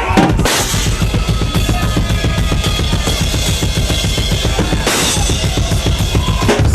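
A drum kit played fast and busy: rapid bass drum and snare strokes under a constant wash of cymbals.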